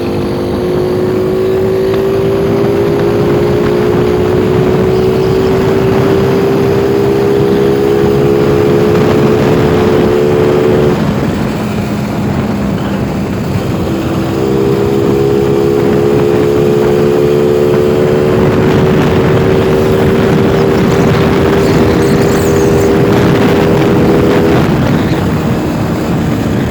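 Daytona Sprinter 125 motorcycle engine running through a VPR aftermarket exhaust, held at steady revs with the pitch slowly climbing. The note drops about eleven seconds in, picks up again a few seconds later and climbs slowly once more, then eases off near the end.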